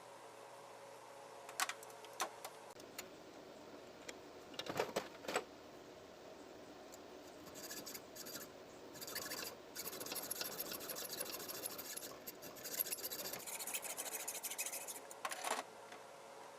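A few sharp clicks and knocks of metal parts being handled, then several seconds of uneven hand scraping or rubbing on metal, in strokes with short breaks, stopping shortly before the end.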